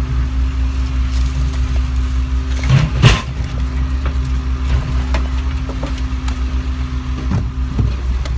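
A heavy vehicle engine running steadily, with a loud bang about three seconds in and another right at the end, as a junk car is unloaded.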